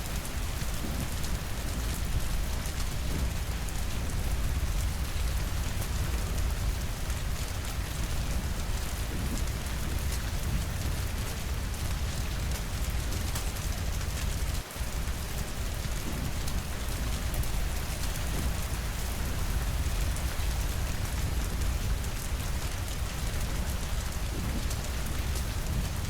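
Steady rain falling on a cabin's windows and roof: an even hiss of drops with fine ticks of individual drops and a deep, low rumble underneath. The level dips for a moment about halfway through.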